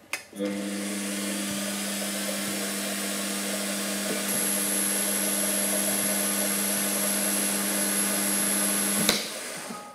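Holzmann ED 400FD lathe, converted to CNC, switched on with a click and running steadily with a hum and a broad whirr. A thin high whine joins about four seconds in. About nine seconds in it is switched off with a click and briefly runs down.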